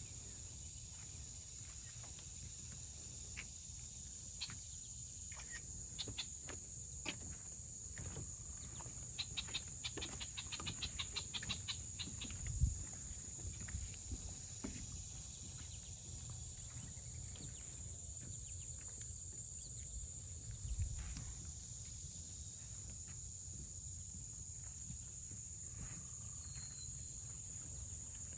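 Steady, high-pitched chorus of insects, with a low rumble beneath. A quick run of clicks comes about a third of the way in, and dull thumps about halfway through and again later.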